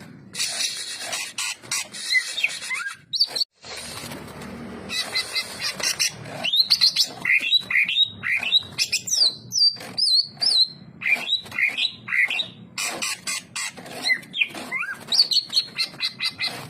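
Greater green leafbird (cucak ijo) singing a fast, varied run of whistled and chattering notes, in several bursts broken by short gaps, over a background hiss.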